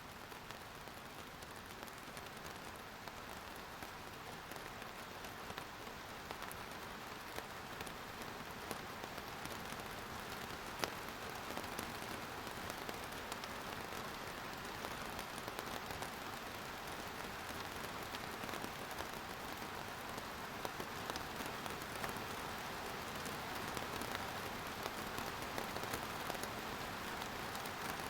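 Steady rain falling on a surface, an even hiss of many small drop ticks, one sharper drop about eleven seconds in, and growing slightly heavier through the stretch.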